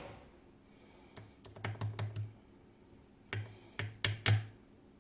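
Light clicks and taps of small metal lock parts and tools as pins are taken out of a KABA Penta lock's first row, in two short clusters.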